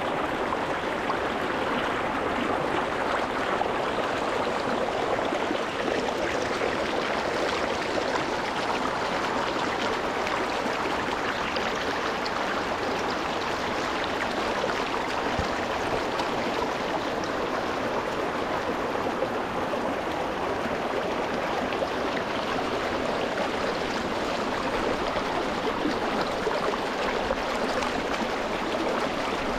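Rocky mountain stream running over stones: a steady rush of flowing water.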